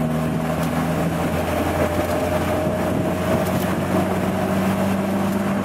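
A 1990 Jeep Wrangler YJ's 2.5-litre four-cylinder engine running steadily while driving in third gear of its 5-speed manual.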